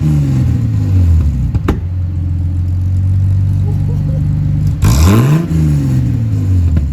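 Ford AU Falcon's 4.0-litre inline-six idling and revved twice through a custom muffler and side-exit exhaust, the revs falling back from a blip at the start and rising again about five seconds in before settling to idle. A single sharp crack comes about a second and a half in.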